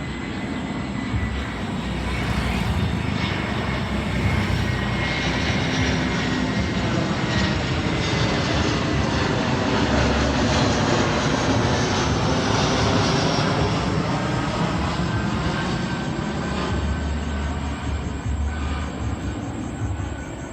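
Airbus A321-211 turbofan jet engines as the airliner flies past coming in to land: a jet whine and rush that swells to its loudest about halfway through and then slowly fades, with a fan tone sinking gradually in pitch as it passes.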